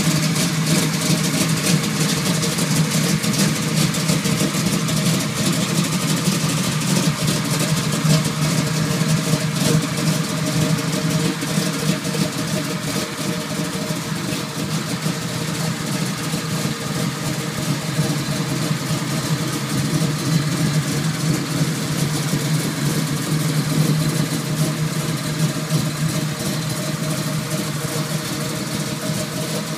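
A 1968 Camaro's 454 big-block V8 idling steadily, with no revving.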